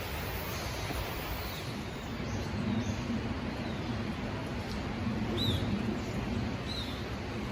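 Mountain stream running steadily, with a few short, high chirps over it, the two clearest near the end.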